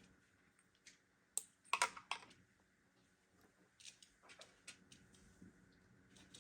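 Scattered light clicks and taps of computer parts being handled, irregular, with a quick cluster about two seconds in and another near the middle.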